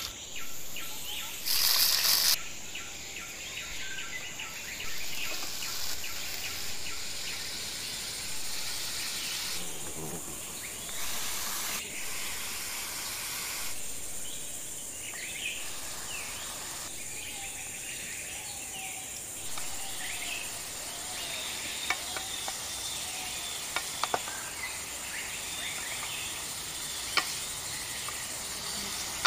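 Chopped bottle gourd frying in hot oil in an iron wok over a wood fire, with a loud burst of sizzling about two seconds in and softer sizzling as it is stirred. Birds chirp around it.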